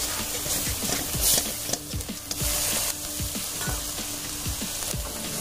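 Masala paste sizzling in hot oil in a metal kadai while a flat metal spatula stirs and scrapes it across the pan in irregular strokes.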